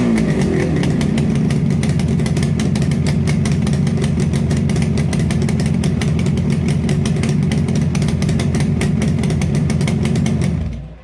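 Motorcycle exhaust: a rev falls away in the first second, then the engine idles steadily before the sound cuts off abruptly near the end.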